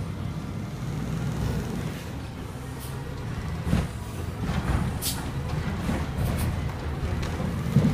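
Garbage truck engine running with a steady low rumble, with a few short sharp sounds over it, about four, five and eight seconds in.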